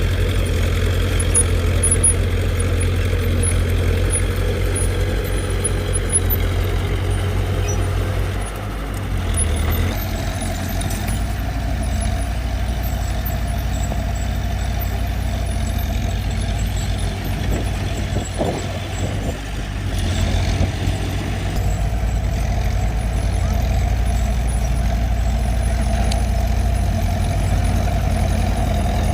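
Heavy diesel engine of earthmoving machinery running steadily at low revs, with the note easing briefly about a third of the way through.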